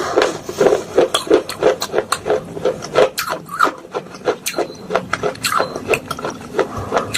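A metal spoon crushing and scraping soaked clay pot pieces in a bowl of slate-pencil paste, with repeated gritty crunches at about three a second.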